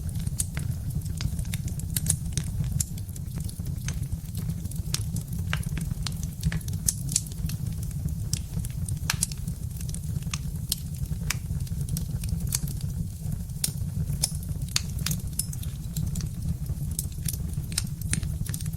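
Birch-wood fire burning in a fireplace: a steady low rumble of the flames with frequent, irregular sharp crackles and pops from the burning logs.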